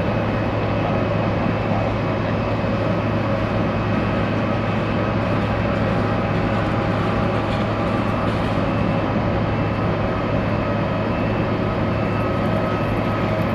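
Airliner jet engines running steadily at idle: a constant drone with a steady whine.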